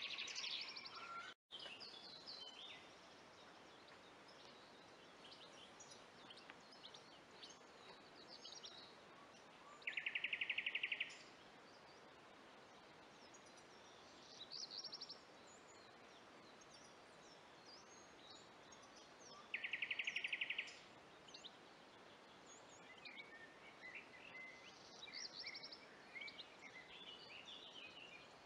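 Woodland birds singing: a rapid, even-pitched trill comes twice, about ten seconds apart, each lasting about a second. Scattered higher chirps from other birds sound over a faint, steady background hiss.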